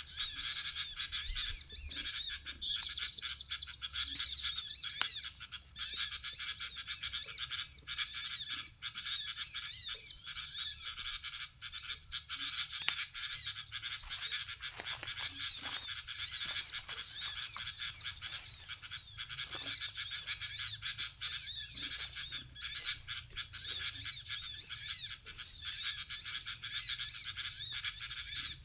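Bird-trapping lure recording ('suara ribut') of many small birds chattering in a commotion, played from a loudspeaker: a dense, unbroken stream of rapid high chirps.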